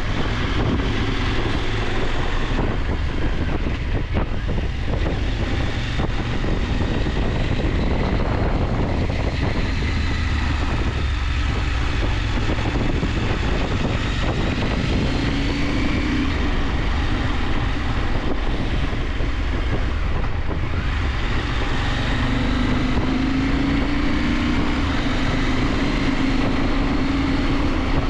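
KTM 890 Adventure's parallel-twin engine running on the move, its note rising and falling with the throttle through the curves, mixed with steady wind rush on the microphone.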